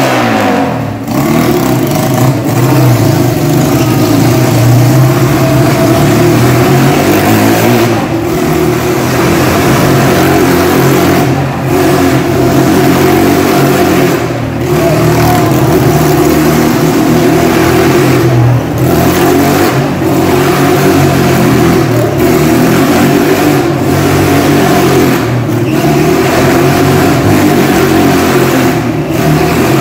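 Motorcycle engines running hard at steady throttle as the bikes circle the wooden wall of a Wall of Death drum. The sound is loud and continuous, dipping briefly every few seconds.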